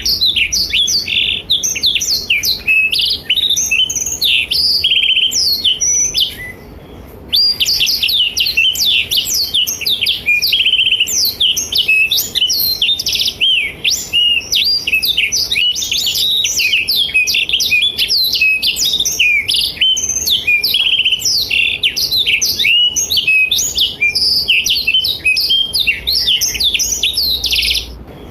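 Blackthroat (black-throated canary) singing a long, fast, high-pitched twittering song, with a brief pause about six and a half seconds in.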